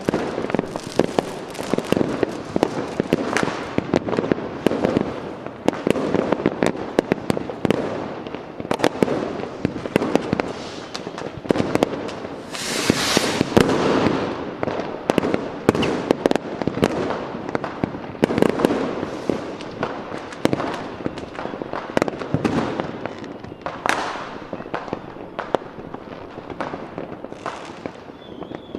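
Fireworks going off in a dense, continuous barrage of bangs and crackles, with a louder crackling burst about halfway through.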